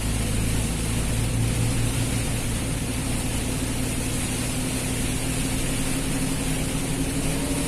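Vehicle engine running steadily with a low hum, under an even hiss of heavy rain and road noise while driving.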